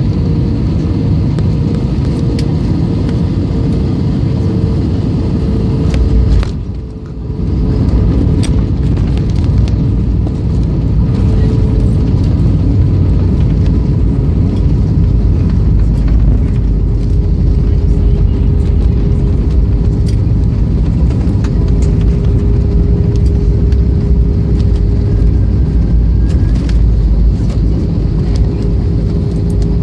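Airliner cabin noise during landing: a loud, steady low rumble with a steady engine whine over it, dipping briefly about seven seconds in.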